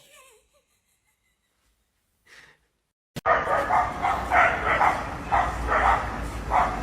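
Near silence for about three seconds, then an abrupt start of a dog barking repeatedly, about two barks a second, over a steady background hiss.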